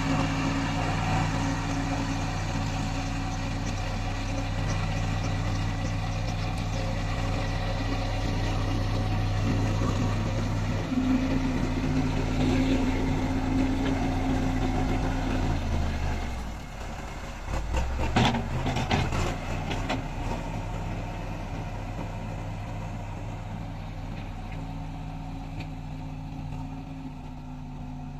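Diesel engine of a heavy earth-moving or road-building machine running steadily. Its pitch steps up about ten seconds in and drops sharply a few seconds later. A brief burst of clattering knocks follows, then it settles back to a steady lower run.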